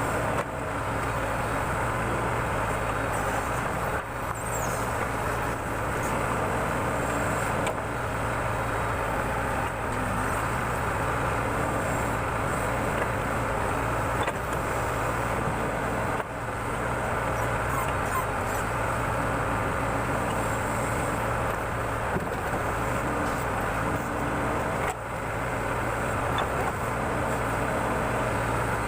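Backhoe loader's diesel engine running steadily as the machine digs, with a constant low hum and no breaks.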